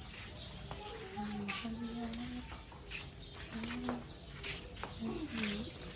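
An insect chirping in a steady, high, rapid trill that breaks off for about a second midway, then resumes, with faint low voices underneath.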